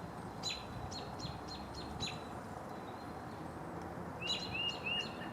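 A songbird singing: a run of quick, sharp high notes about half a second in, and another short phrase near the end, over a steady outdoor background hiss.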